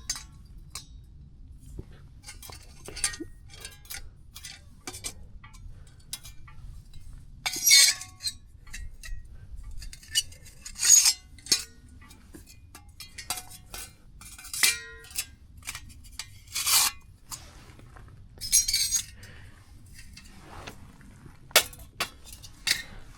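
Irregular clinks and clatters of camp cookware and utensils being handled, with short rustling bursts between them and a few louder knocks.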